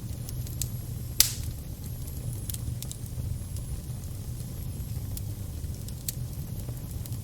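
Fire burning with a steady low rumble, scattered crackles and sharp pops, and one loud pop about a second in.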